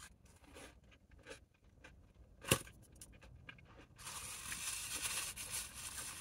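Quiet close-up eating sounds: a bite into crispy battered cod, then chewing with scattered small crunches and mouth clicks, one sharper click about two and a half seconds in. From about four seconds a steadier soft rustling noise.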